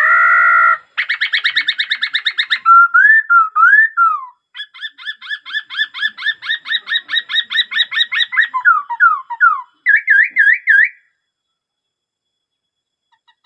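Laughingthrush singing a varied song: a held buzzy note, fast trills, slurred whistles, a long rapid trill, then falling slurs and a few upswept notes, stopping about eleven seconds in.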